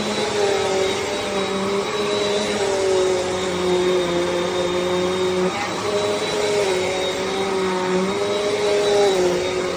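Bissell CleanView Compact upright vacuum cleaner running steadily, its motor whine dipping slightly in pitch and recovering a few times.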